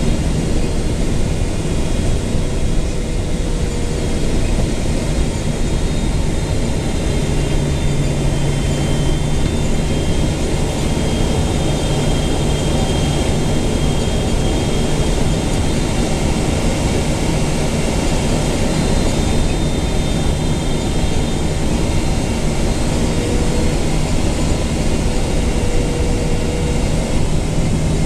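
Cabin noise inside a Boeing 777-200LR on final approach: a steady rush of airflow with the GE90 engines near idle, and a few faint steady tones that drift slightly in pitch.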